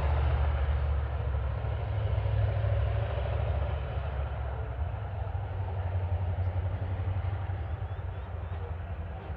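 TasRail TR class diesel-electric locomotives hauling a loaded coal train uphill, a steady low engine rumble mixed with the rolling of the wagons, slowly fading as the train pulls away.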